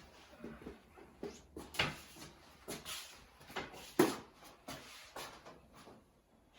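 Scattered knocks, clicks and scrapes of parts and tools being handled, with the loudest knock about four seconds in.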